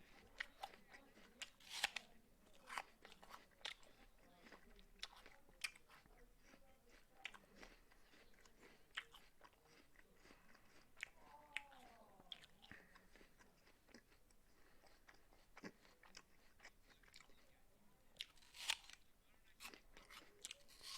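A person chewing a raw apple close to the microphone: irregular crisp crunches as bites of apple are broken down, louder bites about two seconds in and again near the end.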